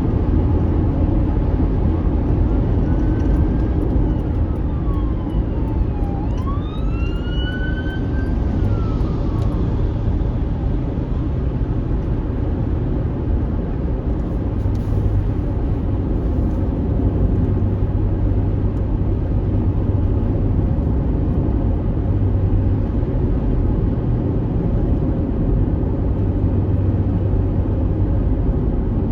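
Steady rumble of a vehicle driving on a dusty unpaved road, heard from inside the cabin. A few faint rising and falling whistle-like tones come and go a few seconds in.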